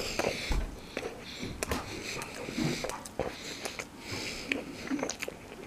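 A person chewing a mouthful of sandwich close to the microphone: many small wet mouth clicks, with breaths drawn through the nose every second or so.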